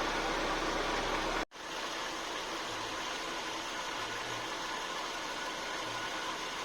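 Nissan Tsuru III engine idling steadily under a hiss of noise, the sound cutting out for an instant about a second and a half in.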